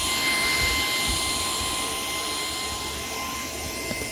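Shark PowerDetect IP1251 vacuum cleaner running steadily with a high motor whine, slightly louder in the first second.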